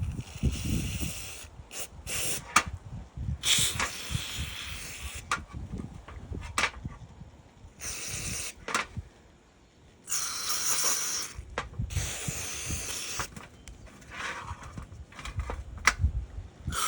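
Pressurised spray hissing on the parts of a Honda CRF230F motorcycle carburetor, in about seven short bursts, with clicks and knocks of small parts and tools between them. This is the carburetor being cleaned to cure stuttering and bogging down.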